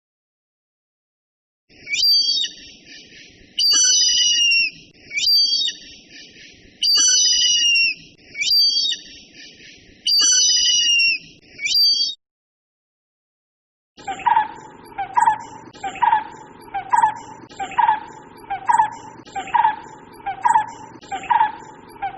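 Two bird recordings in turn. First a bird gives sharp, high, repeated calls in phrases about every second and a half. After a short gap a second bird calls steadily, a little more than once a second, each call a lower note that falls in pitch.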